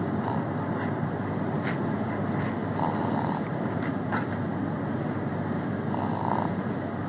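Shih Tzu snoring, twice, about three seconds apart, over the steady road noise inside a moving car's cabin. The snoring is chronic.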